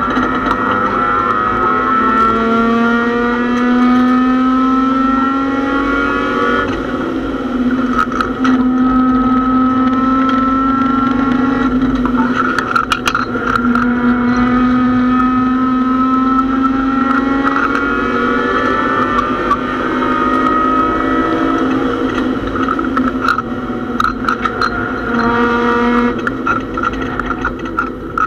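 Mazda MX-6 race car's engine heard from inside the stripped cabin at speed, its pitch climbing steadily and then dropping back several times over. Sharp clicks and rattles come through over the engine.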